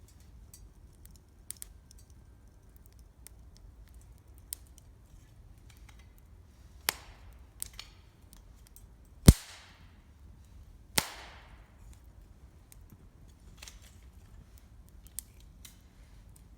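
Wood campfire crackling, with scattered small ticks and a few sharp pops of burning wood, the loudest a little past the middle.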